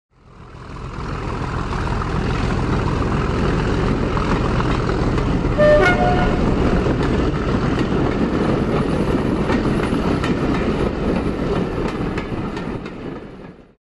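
A railway train running, fading in at the start and out at the end, with a short two-note horn about six seconds in.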